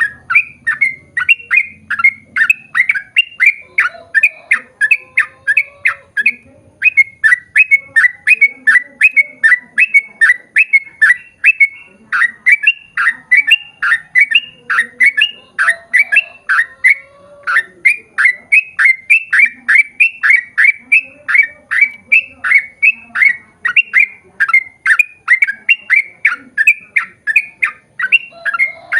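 Yellow-vented bulbul (trucukan) singing a long, fast run of short, falling chattering notes, about three or four a second, with a couple of brief pauses.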